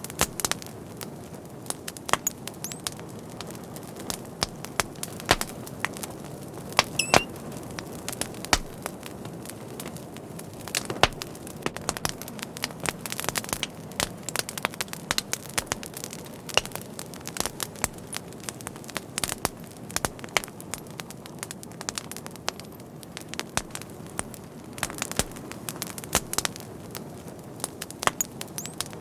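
Wood fire burning, with irregular sharp pops and snaps over a steady low hiss of flame, and a brief high whistling squeak about seven seconds in.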